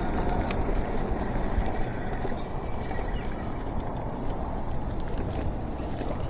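Electric bike being ridden: steady wind rush on the action camera's microphone mixed with tyre noise, with a few light clicks.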